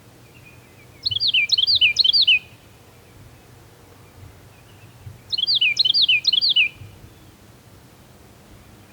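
A songbird sings two short phrases about four seconds apart. Each phrase is a quick run of repeated falling notes.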